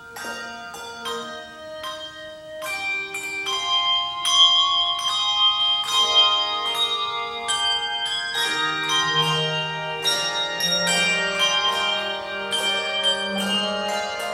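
Instrumental music on tuned bells: many struck notes ringing on and overlapping in a melody, with a sustained low line coming in about eight seconds in.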